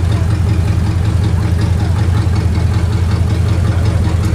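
Car engine idling steadily with an even, low rumble.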